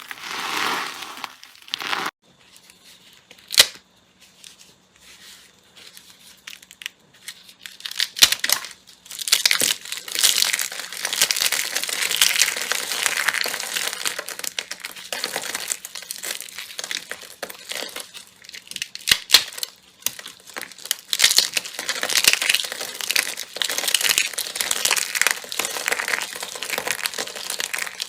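Slime being squeezed and worked by hand, making a run of crinkling, crackling sounds. It is sparse at first, with one sharp click, and turns into a dense, continuous crackle after about eight seconds.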